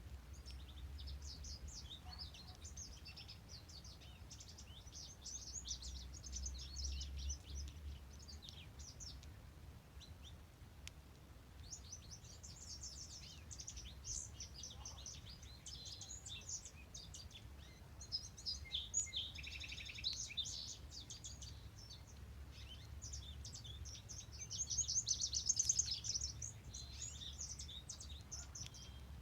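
Several songbirds singing over one another in quick high phrases and trills, the loudest song coming about three quarters of the way through, over a steady low rumble.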